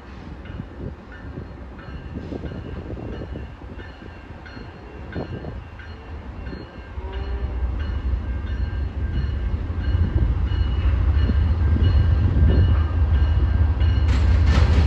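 A train approaching, its low rumble growing steadily louder from about halfway through.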